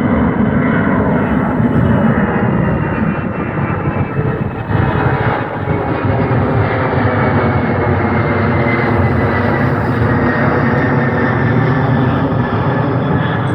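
Fixed-wing aircraft engines running loud and steady during a touch-and-go practice, with a high whine that slowly falls in pitch.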